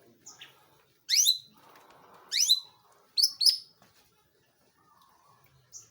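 Long-tailed shrike (pentet/cendet) calling in loud, sharp chirps: a note that sweeps steeply upward about a second in and again near the middle, then two quick falling chirps, with short pauses between.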